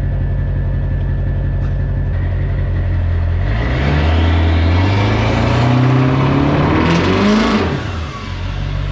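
Pickup truck engine idling, then revving with its pitch climbing from about three and a half seconds in as the rear tires are spun to dig down, along with a rising rush of noise. It drops back to idle near the end.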